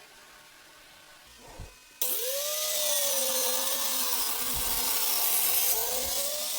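Angle grinder with a cutting disc running and cutting wood in a sliding cutting jig, a loud whine that wavers in pitch under load. It starts abruptly about two seconds in, rising in pitch for a moment, and cuts off suddenly near the end.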